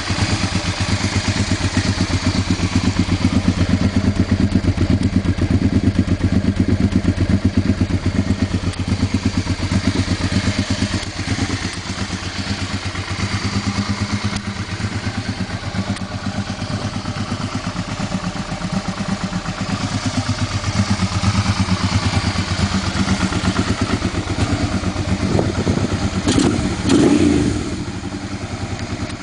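1988 Honda Hawk GT's 647 cc V-twin engine running through a Two Brothers aftermarket exhaust with an even stream of exhaust pulses. Near the end comes a brief blip of the throttle, rising and falling in pitch.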